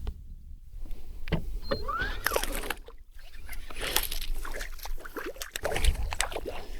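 Handling noises of a hooked bass being landed in a fishing boat: scattered knocks and clicks with short splashy rustles, and a brief rising squeak about two seconds in.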